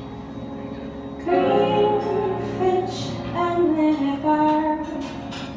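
A woman singing a slow, jazz-arranged show tune over held instrumental chords; her voice comes in a little over a second in, after a sustained chord.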